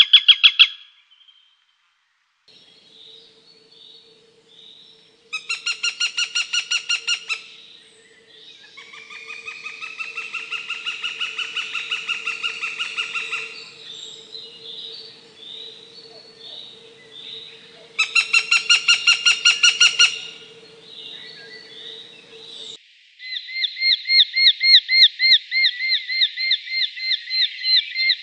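Northern goshawk calling: two fast runs of sharp repeated kek-kek notes and, between them, a long drawn wailing call, over a faint steady hum. Near the end, a Eurasian hobby's rapid, evenly repeated calls begin.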